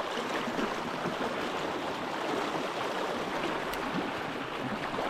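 Strong sea current rushing like a fast river, a steady sound of running water. A single light click comes a little past halfway.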